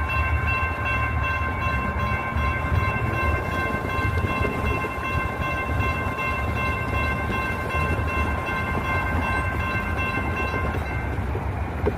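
Light rail train with a steady high-pitched whine over a low rumble. The whine cuts off about eleven seconds in.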